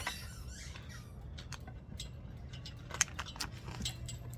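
Light clicks and clinks of hammock-stand parts being handled and fitted, one sharper click about three seconds in. A brief high squeak sounds at the start, over a steady low hum.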